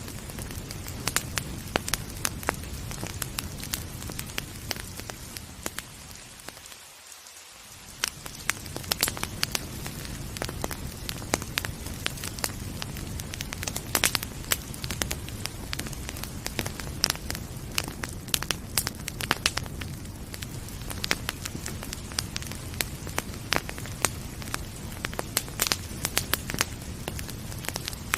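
Wood fire crackling with frequent sharp pops and snaps over a steady rush of rain. About seven seconds in, the low rush briefly fades away and then returns.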